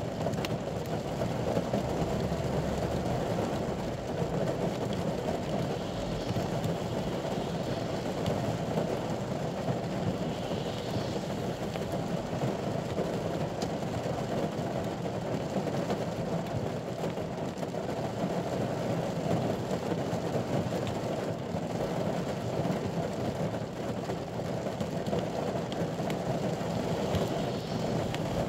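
Rain falling steadily on the ute's roof and windscreen, heard from inside the cab: a dense, even rush with no breaks.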